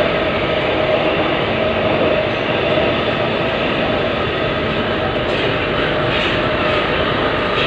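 Budapest Metro Line M2 train running between stations, heard from inside the car: a steady rumble with a held tone, and a few wheel clacks near the end.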